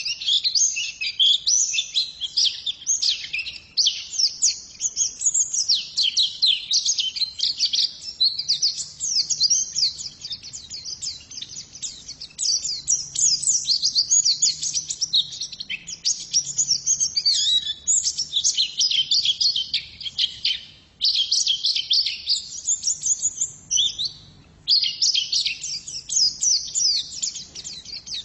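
Female white-eye (pleci) singing in fast, high-pitched twittering runs that go on almost without pause, broken by two short gaps late on.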